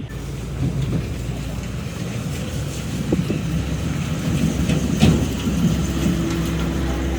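A heavy machine's engine running steadily, with scattered clanks and one louder knock about five seconds in.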